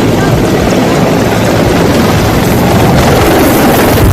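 Loud, steady roar of an aircraft at close range.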